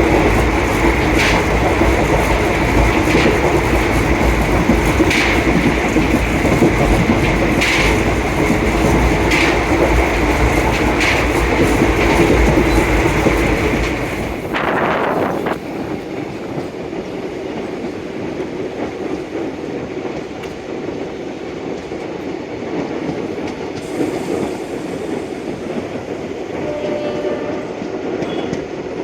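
Train running along the track, with a steady rumble and the wheels clicking over rail joints every second or two. About halfway through the rumble drops away and the sound becomes quieter and thinner.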